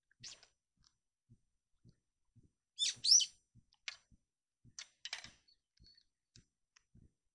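A small bird chirping: a handful of short, high, downward-sweeping chirps, the loudest a quick double chirp about three seconds in.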